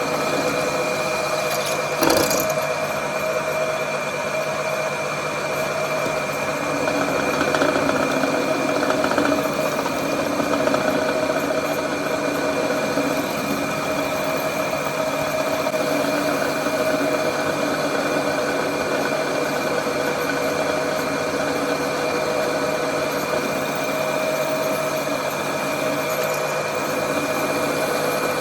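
Workshop machine running steadily with a constant whine and hum, with a single sharp knock about two seconds in and a slightly louder stretch a little later.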